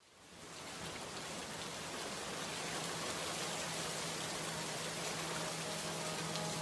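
Recorded rain ambience fading in over the first second, then a steady hiss of rain, with a low steady hum beneath it.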